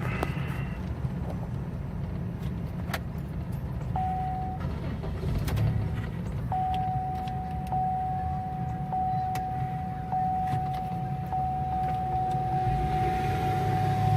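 Low road and running-gear rumble of a 2000 Pontiac Bonneville heard inside the cabin, its engine having just cut out. A steady high electronic tone comes on briefly about four seconds in and again from about six seconds on, with a faint tick roughly every second, and the low rumble grows louder near the end.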